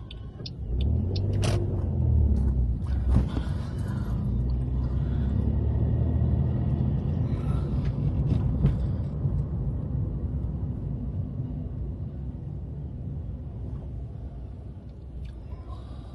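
Car engine and road noise heard from inside the cabin while driving: a steady low rumble that builds about a second in, then slowly eases off, with a few light knocks early on.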